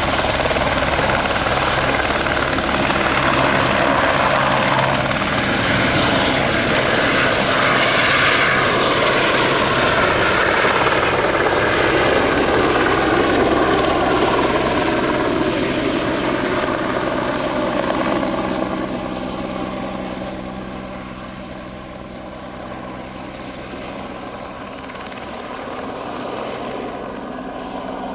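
Light turbine helicopter flying past, with rotor noise and a high, steady turbine whine. Its tones drop in pitch as it passes, and it fades over the last third, swelling a little again near the end.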